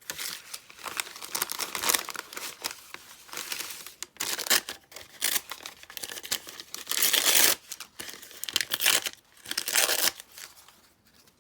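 Scrap paper being torn and crinkled by hand: a string of short tearing and rustling sounds that dies away near the end.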